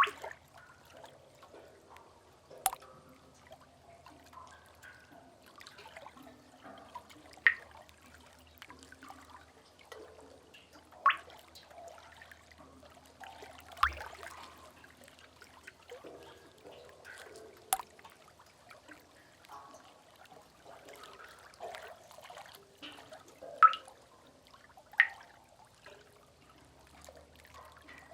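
Sea cave ambience: single water drips falling every few seconds, about seven clear ones in all, over faint trickling and gurgling water.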